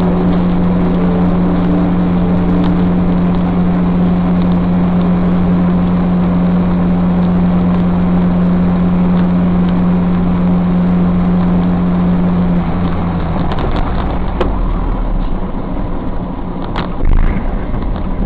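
Road and engine noise from a moving vehicle: a steady drone with a strong hum that fades out about thirteen seconds in, followed by a few sharp knocks and a short loud burst about seventeen seconds in.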